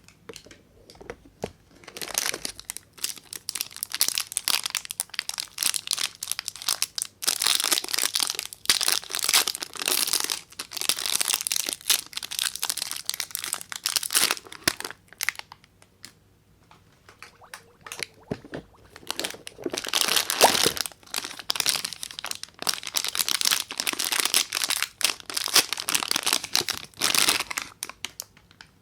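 A soap bar's wrapper being crinkled and pulled open by hand, in dense crackling that starts about two seconds in, pauses for about two seconds midway, then resumes.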